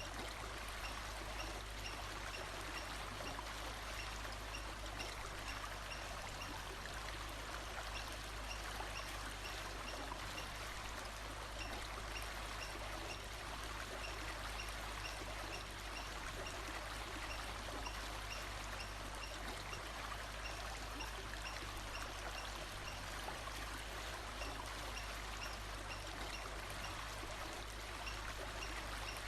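Steady rushing of a flowing stream, with faint, short high chirps repeating at an even pace.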